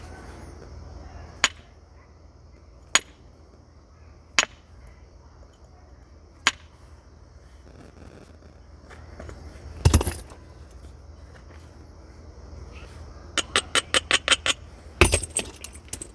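Flint being knapped with natural tools: single sharp stone clicks every second or two, a heavier knock about ten seconds in, then a quick run of about eight light clicks and a loud final strike near the end.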